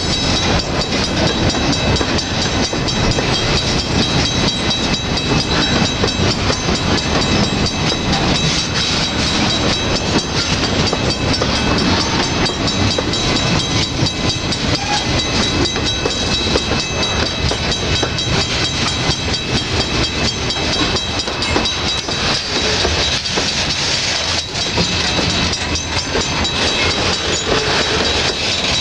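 Freight train cars (boxcars, covered hoppers and tank cars) rolling past: a steady rumble of steel wheels on rail with rapid clicking over the rail joints, and a thin steady high ring over it.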